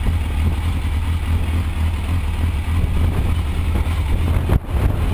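Yamaha Fazer FZS600's inline-four engine running at low speed, a steady low rumble; the sound drops out briefly about four and a half seconds in.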